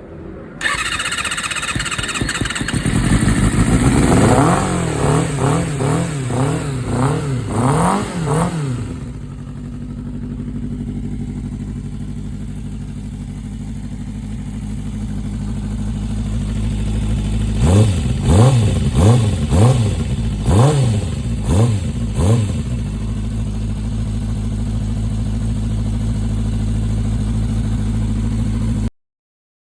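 250cc four-cylinder motorcycle engine in a Suzuki Choinori scooter, running through an aftermarket muffler: it is blipped up and down repeatedly, settles to a steady idle, is revved in another quick series of blips, and idles again until the sound cuts off abruptly.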